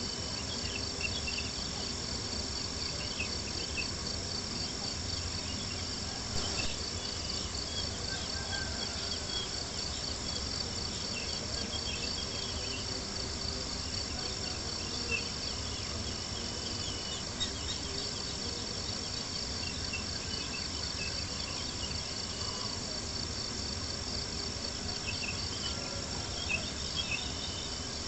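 A steady chorus of crickets chirping in rapid high-pitched pulses, with a few sharp pops from a crackling campfire.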